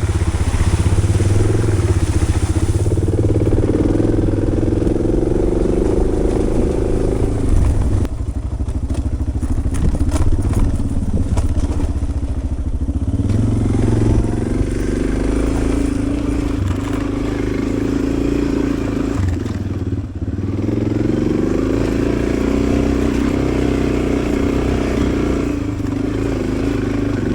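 Motorcycle engine running under way on a muddy dirt trail, its pitch rising and falling with the throttle. Scattered clattering knocks come from about eight to thirteen seconds in.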